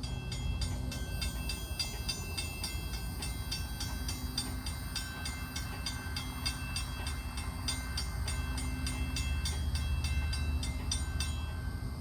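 A diesel-electric locomotive (an ex-Canadian National GP9U) rumbles low and steady as it approaches with its train. A high, evenly repeated ringing, several strikes a second, sounds over the rumble and stops near the end.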